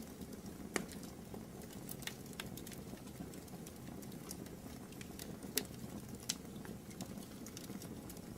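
Wood fire burning in a fireplace: a steady low rumble of flames with scattered crackles and a few sharper pops, the loudest a little under a second in and about five and a half seconds in.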